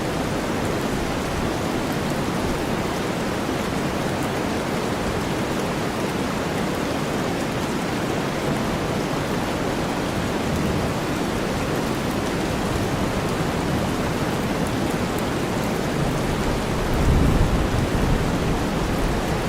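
Steady heavy rain blended with deep white noise, an even hiss with no breaks. A low rumble of thunder swells in about three quarters of the way through.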